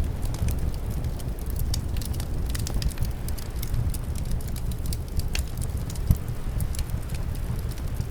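Wood fire in a fireplace crackling, with frequent irregular sharp pops and the loudest snap about six seconds in. Under it runs a steady low rumble of winter wind.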